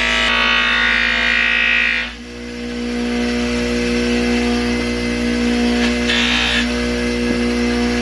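Electric buffing wheel running with a steady motor hum while an antique metal door plate is pressed against it with polishing compound. A harsh polishing hiss sounds for the first two seconds, breaks off, and returns briefly about six seconds in.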